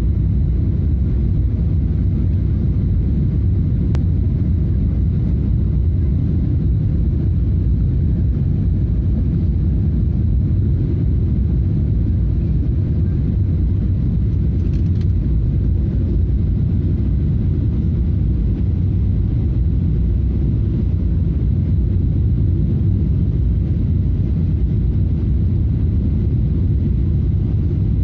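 Steady low rumble inside the cabin of a Boeing 777 airliner on approach: engine and airflow noise.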